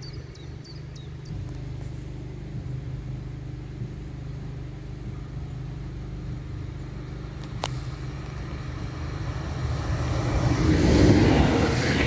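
Stadler FLIRT electric multiple unit (S-Bahn) approaching along the line, its rumble growing louder over the last few seconds as it reaches and runs past. A few bird chirps at the very start and one sharp click about two-thirds of the way in.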